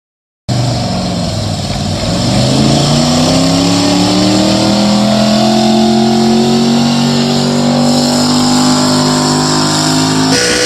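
A pulling truck's engine running hard under load. Its pitch dips briefly, then climbs slowly and steadily as the revs build, until the sound is cut off abruptly near the end.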